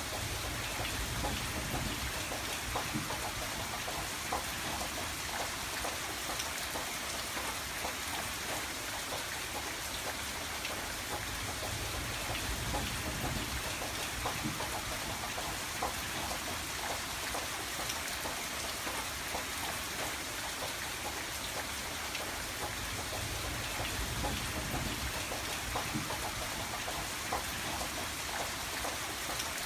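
Steady rain falling on a window, with many separate drops ticking against the glass.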